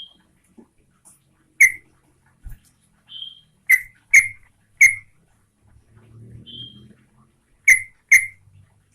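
Yellow-vented bulbul (trucukan) calling: six loud, very short, abrupt notes at irregular intervals, some in quick pairs, with three softer, brief higher whistled notes in between.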